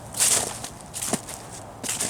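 Footsteps of a person walking along a frozen creek bed, three evenly paced steps, each a short crunch on the frozen ground and debris.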